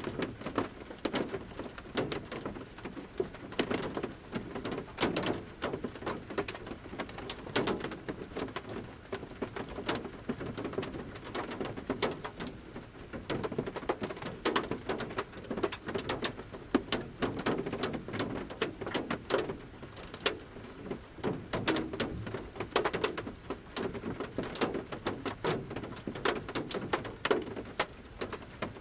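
Large rain drops falling from the forest canopy onto the metal roof of a camper van, heard from inside: a steady light patter with heavier single drops landing at irregular intervals.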